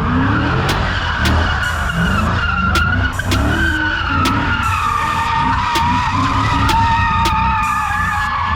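Car tyres screeching continuously under wheelspin, with the engine revving again and again underneath.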